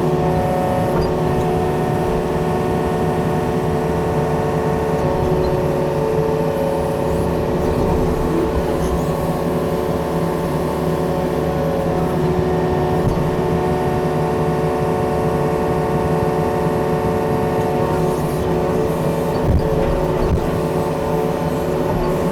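Yanmar excavator's diesel engine running steadily under working load while its rake attachment digs out a pine stump, a steady, unchanging engine note.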